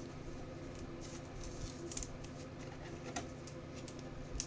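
Trading cards being handled: a few light clicks and soft rustles over a steady low hum.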